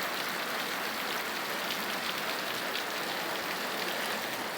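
Steady heavy rain pouring down, an even hiss with the patter of individual drops.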